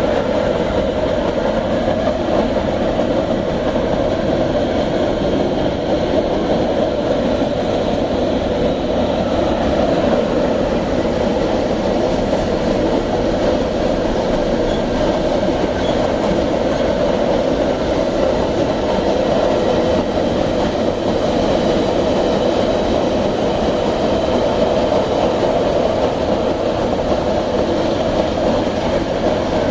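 Iron-ore freight train wagons rolling past on the track: a loud, steady rumble of wheels on rails with some clickety-clack and a faint high metallic ring from the wheels.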